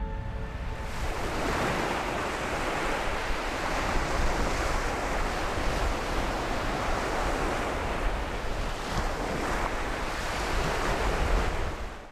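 Ocean surf washing onto the shore in a steady rush, with wind buffeting the microphone; it fades out at the very end.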